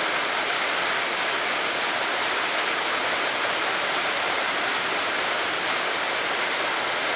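A waterfall rushing: a steady, unbroken roar of falling water.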